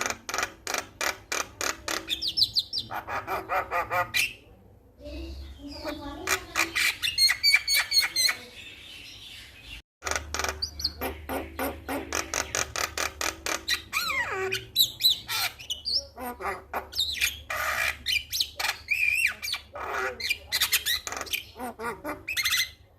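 Male Javan myna (jalak kebo) singing in quick runs of repeated harsh, chattering notes mixed with short whistled glides. The song breaks off for an instant about ten seconds in, then carries on.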